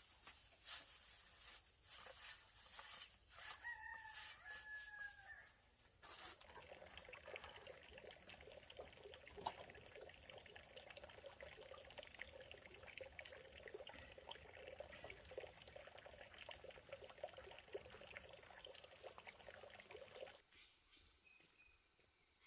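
A rooster crows once, about four seconds in, one drawn-out call that falls slightly at the end. Then comes a long, dense crackling noise that cuts off suddenly near the end.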